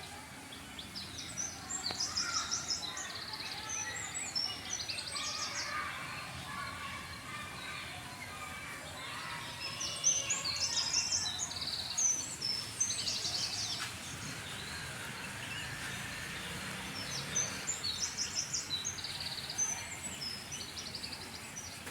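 Birds chirping and singing outdoors, with three bouts of high, quick trilled chirps and softer, lower chirps between them over a steady background hiss.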